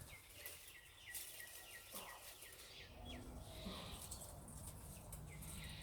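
Small birds chirping faintly in quick, repeated short notes.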